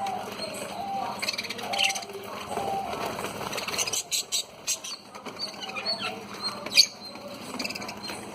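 Budgies chirping and chattering in short high calls, with scattered sharp clicks.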